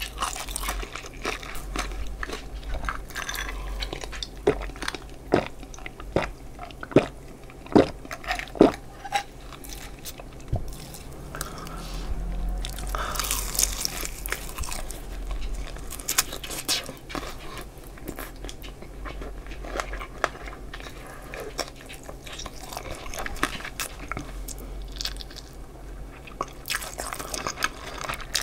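Close-miked crunching and chewing of crispy battered fried chicken drumsticks. Sharp crunches come thick in the first third, with a longer crackling bite into the crust about halfway through, then slower chewing.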